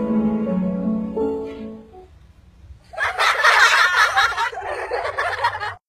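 Soft instrumental music that dies away about two seconds in, then a loud burst of crowd noise with people laughing that lasts nearly three seconds and cuts off suddenly.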